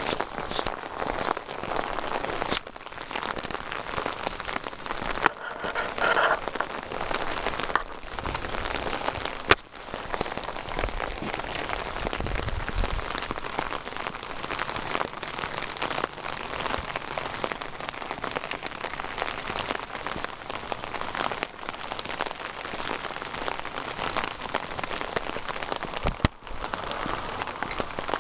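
Steady rain falling and pattering on surfaces, a dense crackling hiss, with a couple of sharp clicks about a third of the way in and near the end.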